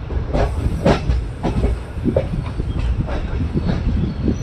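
Indian passenger train (Maurya Express) rolling along the track: a steady low rumble with irregular clicks and knocks of the wheels over rail joints.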